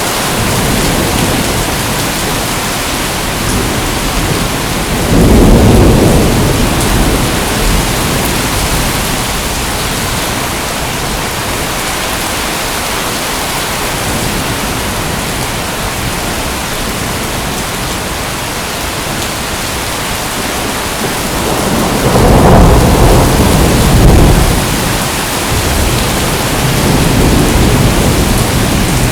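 Steady heavy rain with rolling thunder: a low rumble swells about five seconds in, and another, longer one comes near the end.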